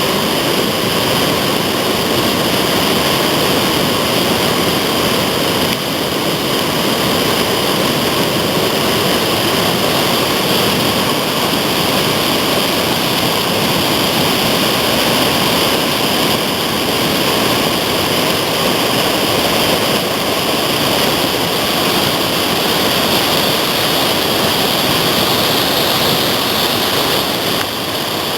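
Steady loud rush of whitewater on a creek, an even roar of water with no breaks.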